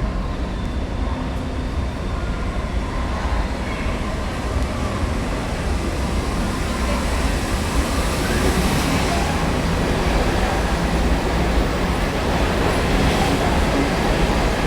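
R68 subway train on the express track, a steady rumble of motors and steel wheels on rail that grows slightly louder.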